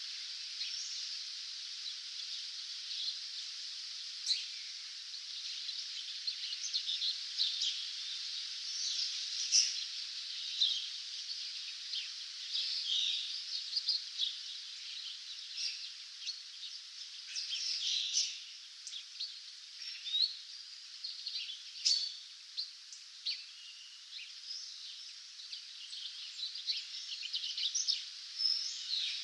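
A dawn chorus of several small songbirds chirping and trilling over a steady background hiss, with frequent short overlapping calls throughout.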